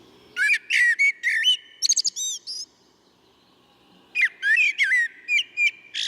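A songbird singing two quick phrases of high, whistled notes that glide up and down, each about two seconds long, with a pause of about a second and a half between them.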